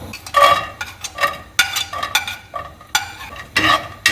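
A spatula stirring raisins frying in ghee in a pan: a run of quick scraping strokes against the pan, about two a second, over a light sizzle.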